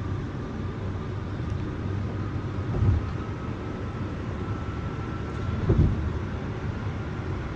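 Road noise inside a moving car on an expressway: a steady low rumble from the tyres and engine, with two short low thumps about three seconds apart, the second the louder.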